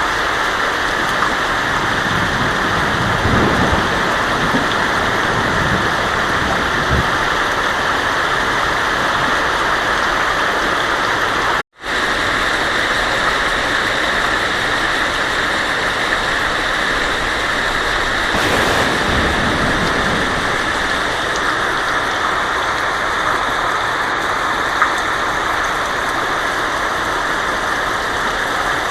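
Heavy rain falling steadily on a tin roof, with low thunder rumbles a few seconds in and again past the middle. The sound cuts out for an instant just before the middle.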